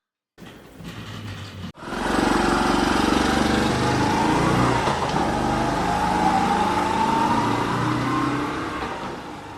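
Engine running loudly and revving, starting suddenly about two seconds in, with a rising whine in the middle, then fading away near the end.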